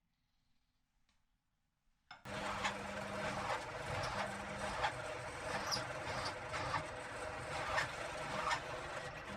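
A power tool running under load while working steel. It starts suddenly about two seconds in, runs steadily with faint regular ticks, and stops near the end.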